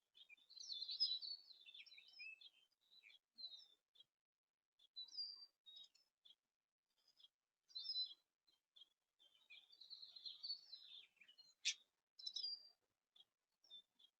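Small songbirds chirping and twittering in short, scattered calls, faint overall, with one sharp click near the end.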